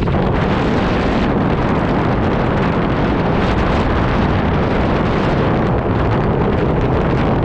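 Strong wind buffeting the microphone on a moving 2018 Honda PCX150 scooter. It is a steady, loud, rumbling rush of noise that covers the scooter's own running.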